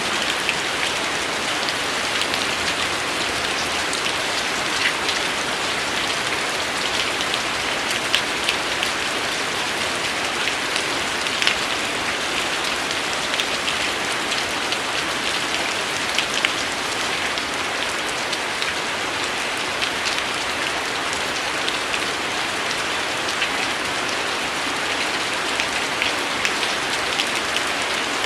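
Steady rain falling on a surface, an even hiss with many individual drops ticking sharply throughout.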